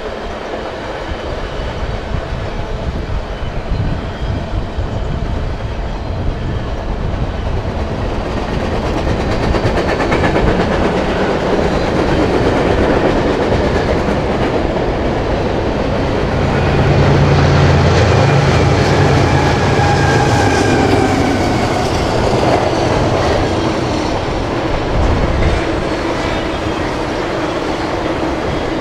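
Freight trains passing: steel wheels clicking over rail joints and cars rattling. About halfway through, the diesel locomotives of a BNSF train add a deep engine rumble as they pass, the loudest part, before the clatter of double-stack intermodal cars takes over.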